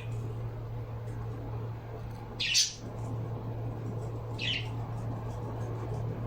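Pet bird giving short, sharp high calls, about two seconds apart, the first the loudest, over a steady low hum.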